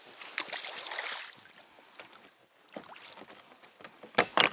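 Water splashing and sloshing around a small boat, with two sharp knocks near the end that are the loudest sounds.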